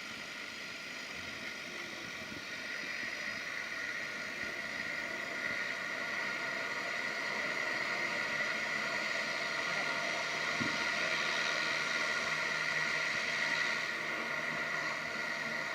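Seaplane's turboprop engines running, a steady whine that grows louder from about two and a half seconds in.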